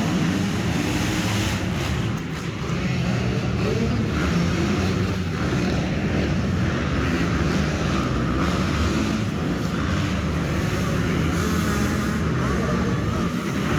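Motorcycle engines running steadily at a motocross track, a dense, continuous engine noise without a break.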